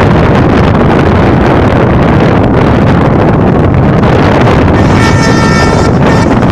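Strong wind buffeting the microphone, a loud steady rumble that masks other sound. About five seconds in, a locomotive horn sounds for about a second on a steady chord of several tones.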